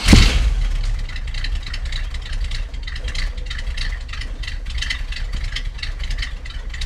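1960 Cadillac Coupe de Ville's 390 V8 catching on a cold start with a loud burst right at the start, then running at a steady high idle, heard from the tailpipes. The idle is a little rough, which the owner puts down to a choke that is not adjusted right.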